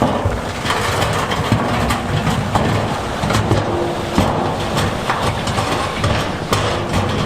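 Heavy diesel earthmoving machinery working among big stones: a steady engine run with repeated knocks and crunches of rock.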